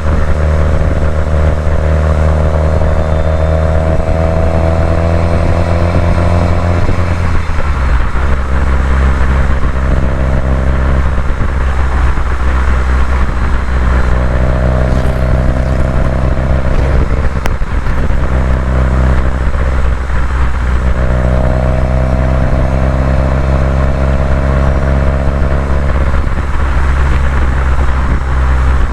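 Subaru WRX STI's turbocharged flat-four engine driving on a winding road, its note rising and easing off several times as the driver accelerates and lifts, with a change in the low engine tone about seven seconds in.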